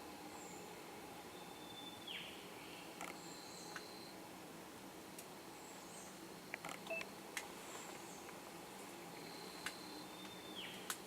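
Faint bird calls: a held high whistle and a whistle that slides down in pitch, heard twice about eight seconds apart, with short high chirps and a few sharp clicks between.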